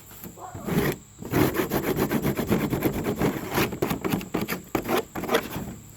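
Scraping while the chicken pen is cleaned out: a dense, irregular rasping clatter that starts about a second in and thins out near the end.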